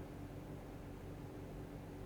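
Steady room tone: an even hiss with a low, steady hum underneath, and no keystrokes.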